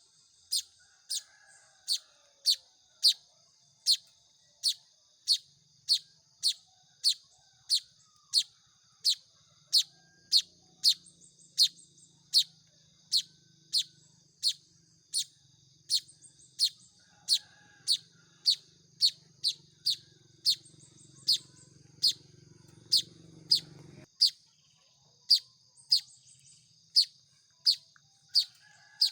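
A manyar weaver chick calling, a sharp high cheep repeated evenly about one and a half times a second, the begging call of a young hand-fed bird. A faint low hum runs underneath for much of the time and stops abruptly near the end.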